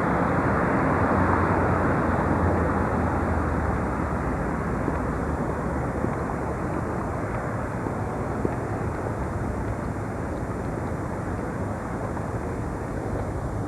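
Steady rumble of city street traffic, easing slightly after about four seconds.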